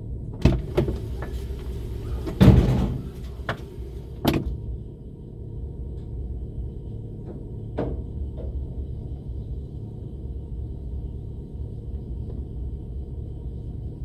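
Car driving, its engine and tyres making a steady low rumble, with a string of sharp knocks and thumps over the first few seconds, the loudest a longer thump about two and a half seconds in, and one more knock a little past halfway.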